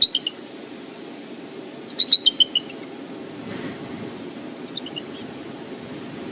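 Bald eagle calling: short, high piping notes that step down in pitch, in three runs, a few at the start, about six about two seconds in, and a faint few near the end. Under it, a steady low rumble of wind on the microphone.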